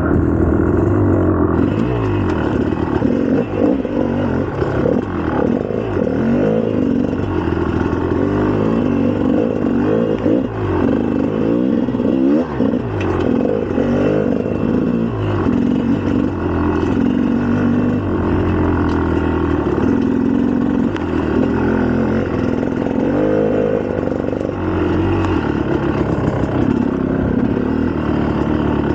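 2004 GasGas EC300's single-cylinder two-stroke engine under way, revving up and falling back again and again as the throttle is worked.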